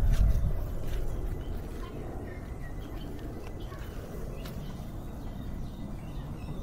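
A low rumble in the first second, then faint bird chirps over steady outdoor background noise.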